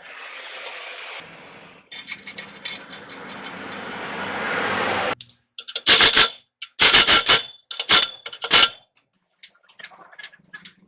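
A steady hissing noise that grows louder for about five seconds and cuts off, then a series of very loud, sharp metallic knocks, like tools striking metal.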